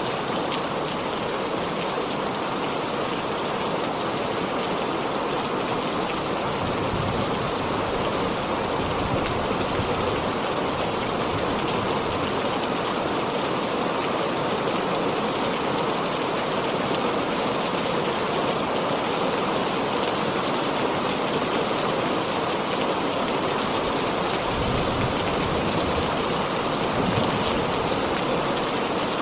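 Heavy rain falling steadily, an even hiss of water, with two brief low rumbles under it about seven and twenty-five seconds in.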